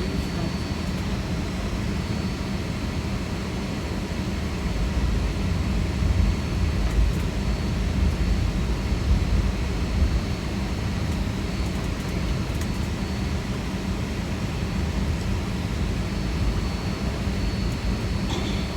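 Boeing 757 cabin noise while taxiing to the gate after landing: a steady low rumble of the engines at idle and the air system, with a faint steady high whine. The rumble swells a few times near the middle.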